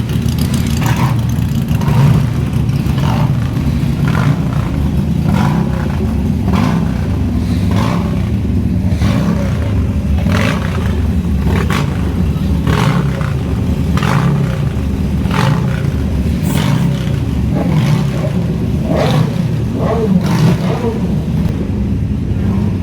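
Motorcycle engines running with a steady low rumble, with sharp short knocks about once a second.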